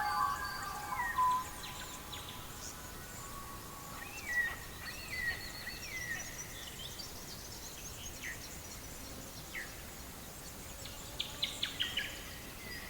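Small songbirds chirping: scattered short rising-and-falling whistled notes, with a quick run of rapid notes near the end, over a faint steady hiss.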